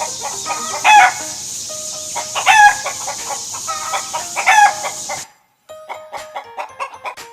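Rooster crowing three times over a steady hiss, the recording cutting off abruptly about five seconds in. Light chiming children's music follows.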